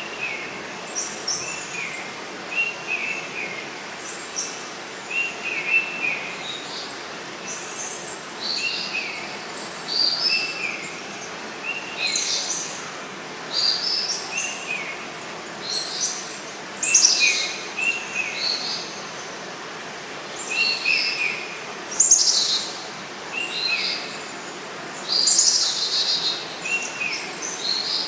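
Forest birds calling, with short notes repeated every second or two throughout and higher chirps overlapping, over a steady background hiss.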